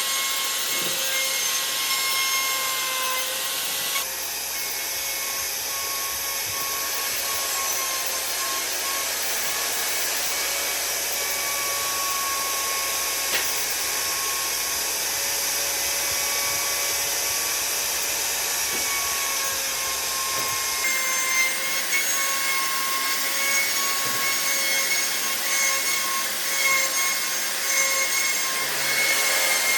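An electric power tool running steadily, its motor giving a constant whine over a hiss. The sound changes abruptly about four seconds in and again around twenty seconds in, and grows a little rougher and more uneven near the end.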